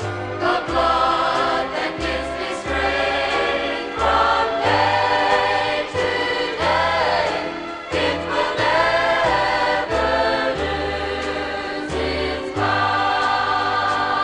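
Gospel choir singing in harmony with band accompaniment and a pulsing bass line.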